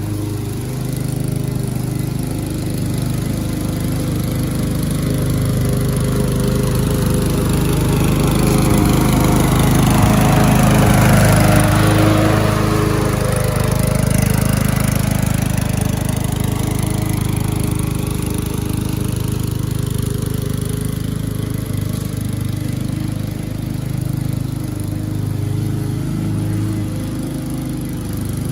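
MTD Yard Works walk-behind lawn mower's small engine running steadily while mowing. It grows louder as the mower passes close, about ten to twelve seconds in, then fades as it moves away.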